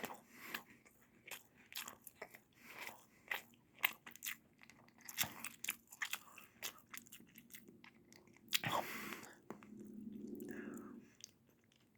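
A child chewing a bite of chicken in gravy close to the microphone: many small irregular wet mouth clicks. Near the end come a breath and a short low hum.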